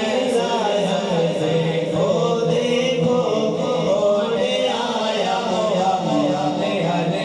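Men's voices chanting or singing together in a continuous melodic line.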